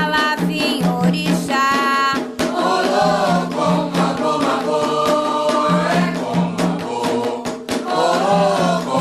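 An Afro-Brazilian ponto sung for Xangô: a singing voice over drums and other percussion, at a steady beat.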